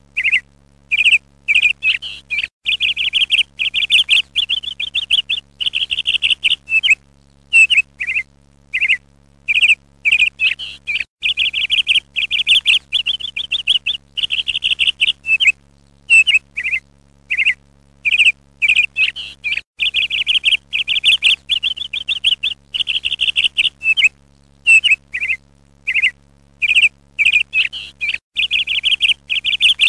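Birdsong: a small songbird chirping and singing rapid trills in phrases a second or two long, broken by short pauses, over a faint steady low hum.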